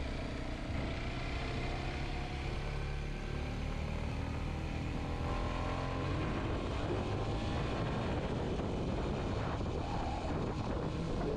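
Kawasaki Z125's small single-cylinder four-stroke engine running under way, with the revs climbing about midway.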